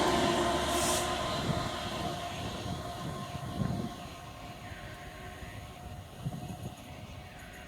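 Class 66 diesel locomotive (EMD two-stroke diesel) moving away after passing close by. Its engine and wheel rumble fade steadily, with a brief high hiss about a second in.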